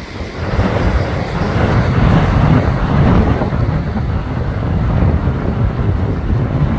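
Strong wind buffeting the microphone with a heavy low rumble, over waves breaking on a rock breakwater; the surge grows louder about half a second in.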